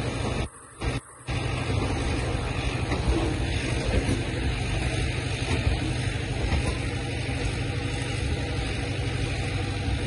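Loaded freight wagons rolling slowly past on the rails: a steady low rumble of wheels and running gear, which cuts out twice briefly about half a second and a second in.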